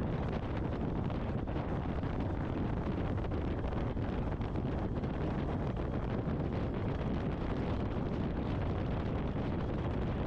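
Steady rush of riding wind over a motorcycle helmet com-unit microphone, with the bike running underneath, on a BMW 1250 GS Adventure at road speed.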